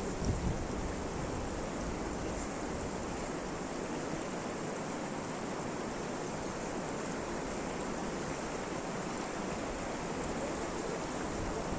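Steady rain, an even hiss throughout, with a brief low thump just after the start.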